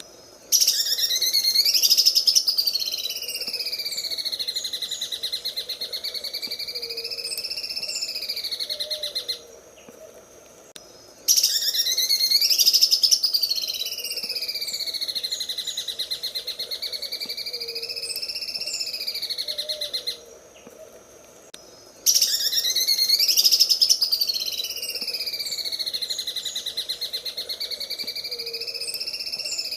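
Cucak ijo (green leafbird) singing its 'sewing machine' song: a fast, unbroken rattling trill whose pitch slowly swings up and down. It comes in three phrases of about nine seconds, each loudest at its start, with two-second pauses between them.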